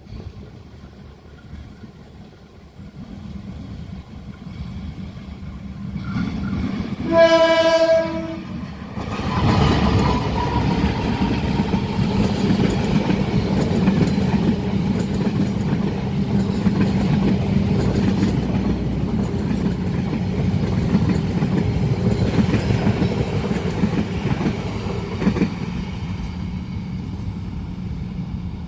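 Train horn sounding one steady blast of about a second and a half, then a long train passing close by for nearly twenty seconds, its locomotive and wheels rumbling over the rails and easing off slightly near the end.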